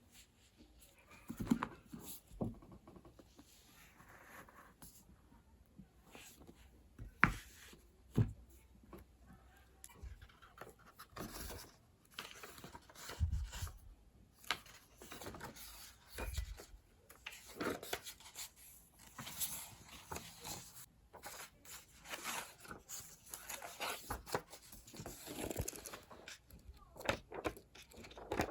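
Desk work with paper and stationery: irregular rustling of paper with small taps and clicks, a few sharper knocks of objects being set down, and stretches of tearing or peeling noise in the second half.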